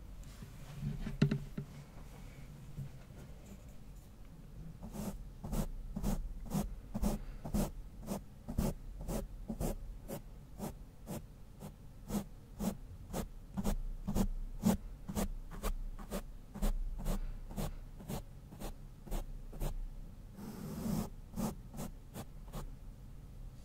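A brush stroked directly across a Blue Yeti microphone: after a quiet start with one brief scratch, short even strokes come about two a second for some fifteen seconds, then a quicker, denser flurry of brushing near the end.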